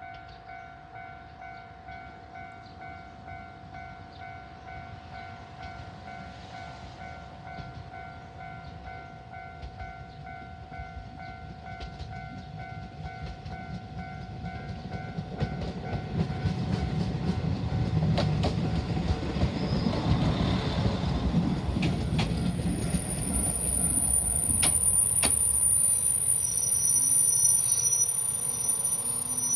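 Level-crossing warning bell ringing in a quick steady pulse, then stopping about halfway through as a Moka 14 diesel railcar comes closer. The railcar's engine and wheels grow louder, with clicks from the wheels on the track, and high brake squeal sets in during the second half as it draws to a stop at the platform.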